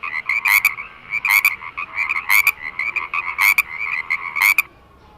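Frog croaking: a rapid pulsed trill with a louder, sharper note about once a second, stopping shortly before the end.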